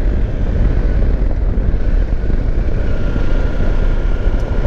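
Kawasaki Versys X300's parallel-twin engine running under way, largely buried in a steady, loud wind rumble on the microphone, with a faint steady high tone above it.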